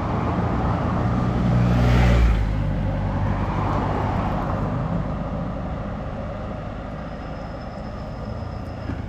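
A motor vehicle's engine running nearby, swelling to its loudest about two seconds in as it passes, then fading steadily away.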